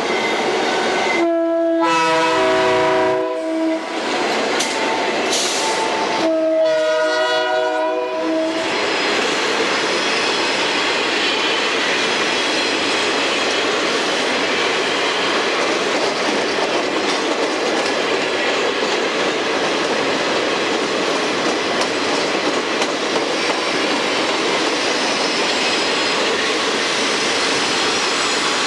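Burlington Northern diesel locomotive's multi-note air horn sounding two blasts of about two seconds each, the second about six seconds in. Under and after them, the steady rolling and clacking of freight cars' wheels on the rails as the train passes.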